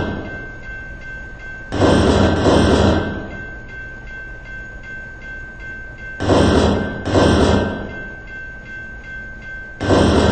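Freight cars of a slow-moving train rolling past, their wheels clattering over the rail in pairs of loud bursts about every four seconds, over a steady rumble and a thin high whine.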